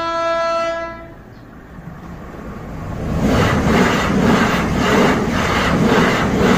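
Train horn sounding one held note that stops about a second in, followed by a train running with a rhythmic clatter about twice a second that grows louder.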